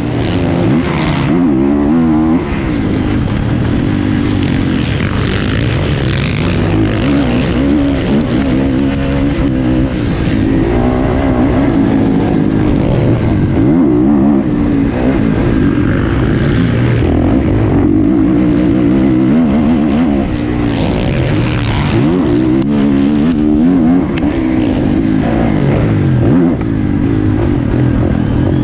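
450cc four-stroke motocross bike engines running hard. The engine pitch rises and falls constantly as the bikes rev, shift and accelerate.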